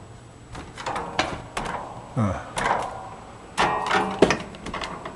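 Footsteps climbing folding attic stairs: a run of irregular knocks and creaks from the steps, with a short falling creak about two seconds in.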